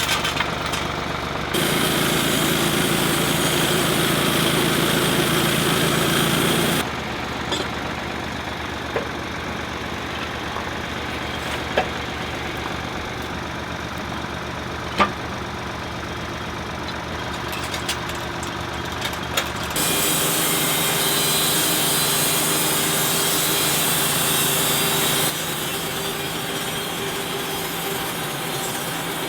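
Wood-Mizer LT28 portable sawmill running, its engine going steadily. The sound jumps abruptly in tone and loudness several times, and a few sharp clicks come through in the middle.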